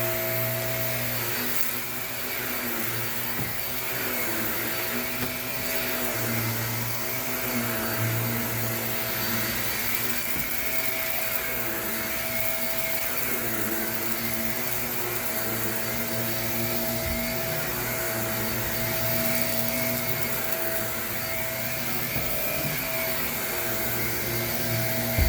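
Shark Navigator upright vacuum cleaner running steadily on carpet, its motor hum wavering slightly in pitch as it works, with a short sharp knock at the very end.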